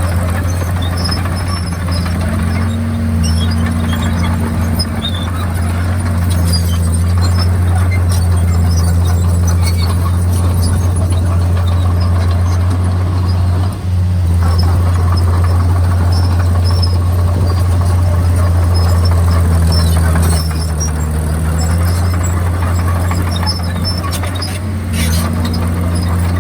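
Komatsu D51PX crawler bulldozer's diesel engine running steadily under load, its pitch stepping up and down a few times, with scattered squeaks and clicks from the steel tracks.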